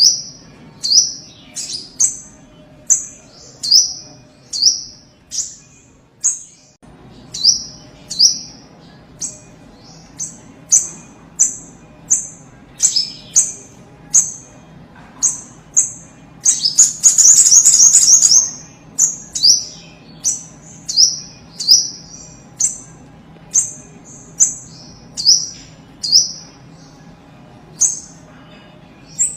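A sogok ontong sunbird calling: a string of short, sharp, high chirps about once a second, each sliding slightly down in pitch. About halfway through, a loud, rapid trill of about two seconds breaks in.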